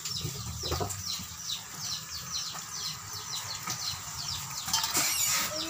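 Small birds chirping rapidly, many short falling chirps a second, with a brief louder clatter near the end.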